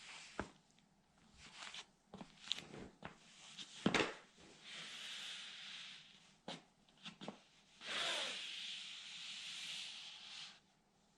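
Toy truck being crushed and ground under a sandal on the floor: a few sharp cracks and snaps, then two long scraping rubs of about one and a half and two and a half seconds.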